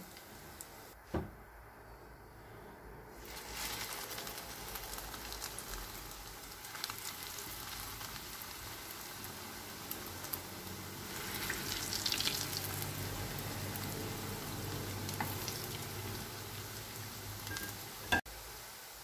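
Bread rolls shallow-frying in hot oil in a non-stick pan: a steady sizzle and crackle that starts a few seconds in and grows louder around the middle. A light knock about a second in.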